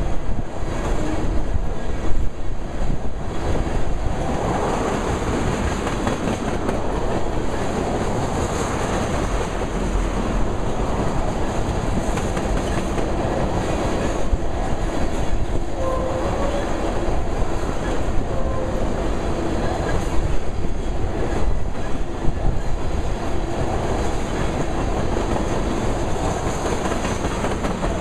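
Freight train of ethanol tank cars rolling past at speed: a steady rumble of steel wheels on the rails with a clickety-clack over the rail joints, and now and then a short faint squeal.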